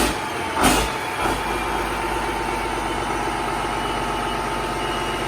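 Yanmar S165L-ST marine diesel engine running steadily, with two short, loud bursts of noise in the first second.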